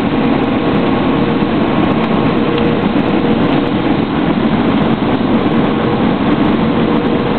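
Steady engine and airflow noise inside the cabin of an Airbus A320, with a faint steady tone running through it.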